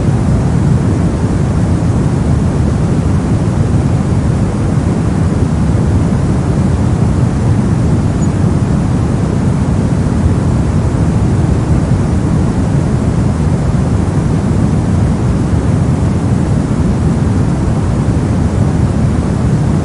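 Steady brown noise: a deep, even hiss with no pattern or events.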